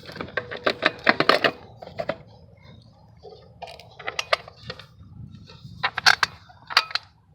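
Irregular sharp clicks and light metallic clatter of tools and small parts being handled as the lawn mower engine's cover and screws are refitted.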